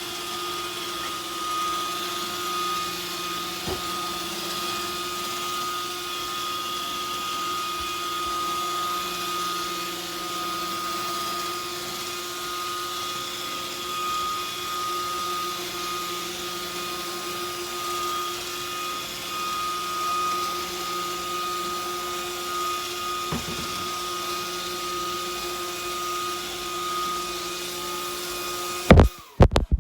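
Roomba 530 robot vacuum running its spot-clean cycle: a steady whir of brushes and suction motor with a constant high whine. About a second before the end come a few loud knocks, and the running sound cuts off.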